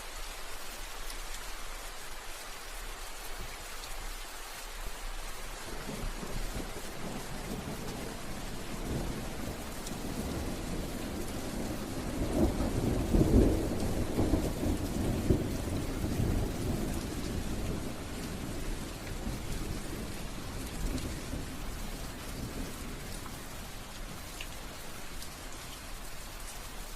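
Steady rain falling, with a roll of thunder that builds from about six seconds in, is loudest around the middle, and fades away over several seconds.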